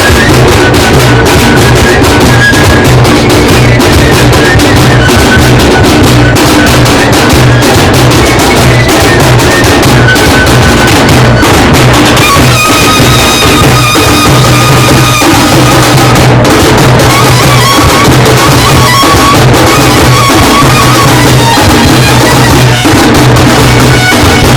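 Muharram drum band playing loud, fast, continuous drumming. From about halfway through, a high melody from a reed-like wind instrument joins in over the drums.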